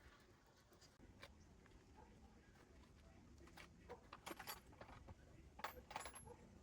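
Near silence with a few faint clicks and light clinks of small hard objects, most of them in the second half.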